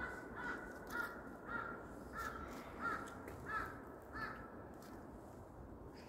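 A bird calling in a run of about eight short, evenly spaced calls, about one and a half a second, that stop a little after four seconds in.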